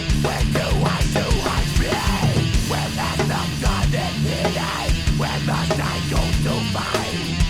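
Heavy metal (metalcore) instrumental passage with distorted electric guitars over fast, steady kick drums, no vocals.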